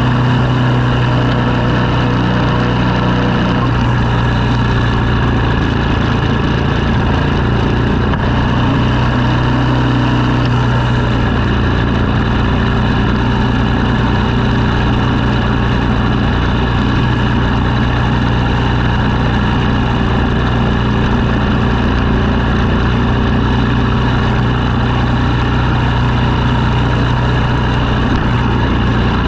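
Engine running steadily at a constant speed, with a machine hum under it.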